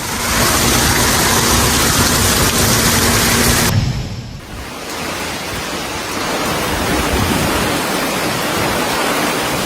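Loud, steady rushing of storm water, heavy rain and running water. The sound changes abruptly about four seconds in to a somewhat quieter rush that slowly builds again.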